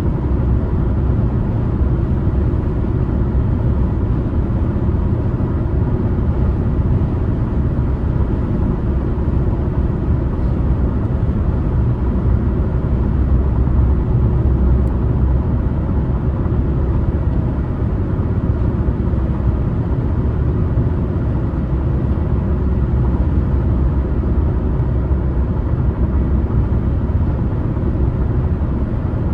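Car driving along a highway: steady low road and tyre rumble with engine noise, even throughout.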